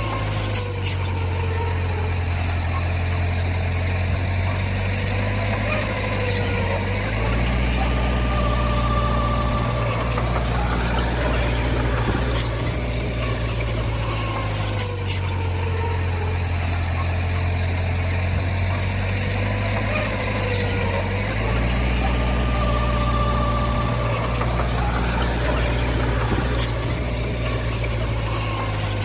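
Heavy machinery diesel engine running steadily, its pitch rising and falling in a cycle that repeats about every 14 seconds.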